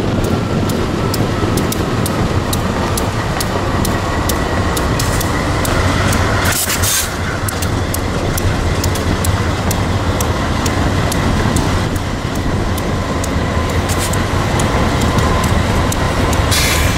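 A train rolling past with a steady low rumble, its wheels clicking rhythmically over rail joints, and a faint steady whine. Two short high bursts of noise come about 7 s and 17 s in.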